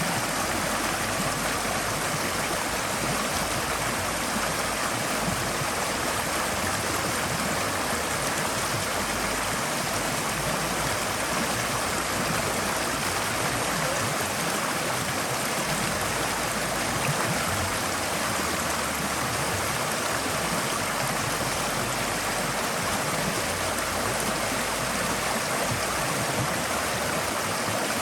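Forest stream flowing steadily over rocks: an even rushing and gurgling of water with no breaks.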